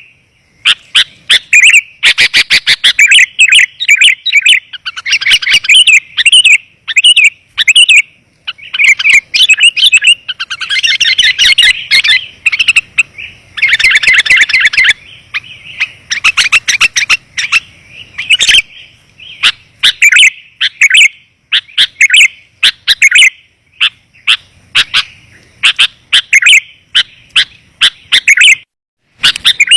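Sooty-headed bulbul (kutilang) calls from a lure recording: loud, rapid chirping phrases packed closely together, with a brief break near the end.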